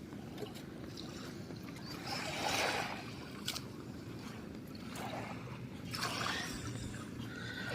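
Small waves washing onto a sandy beach, the wash swelling and easing a few times over a steady low rumble.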